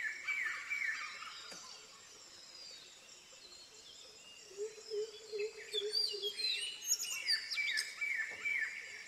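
Wild birds calling: a quick run of short falling notes at the start and again near the end, with higher chirps in between and a lower, steady call about halfway through.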